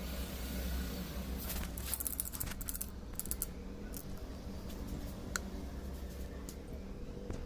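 Small metal parts clicking and tapping as a diesel fuel injection pump is handled and assembled, with a cluster of light clicks a couple of seconds in and a single click later, over a steady low hum.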